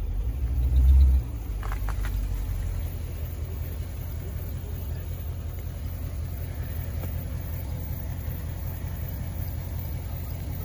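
Dodge Charger SRT8's HEMI V8 idling steadily, with a brief louder low surge about a second in.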